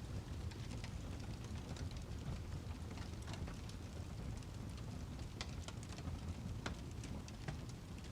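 Wood fire crackling: scattered sharp pops and snaps at irregular intervals over a steady low rumble of burning logs.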